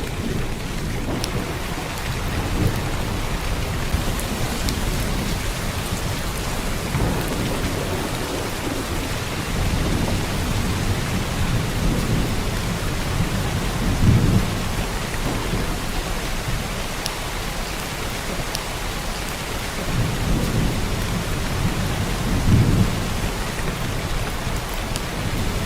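Heavy downpour of rain, a steady hiss, with low rumbles swelling up every few seconds, the strongest about 14 and 22 seconds in.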